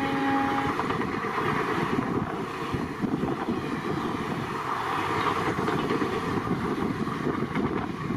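An express train's horn stops within the first second. After that comes the steady rushing noise of the train passing at speed: wheels on rail and moving air, with a fast fluttering clatter.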